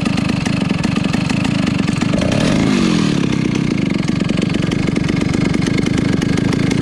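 Vintage Stihl S-10 56cc two-stroke chainsaw engine running steadily.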